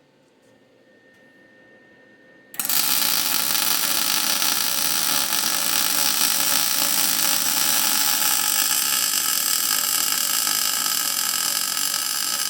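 Electric arc welding: the arc strikes suddenly about two and a half seconds in and runs as a steady, loud crackling buzz while a weld bead is laid on a steel hand rail.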